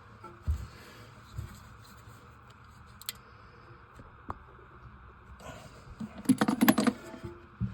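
Scattered clicks and light knocks of parts being handled, with a quick rattle of clicks about six seconds in.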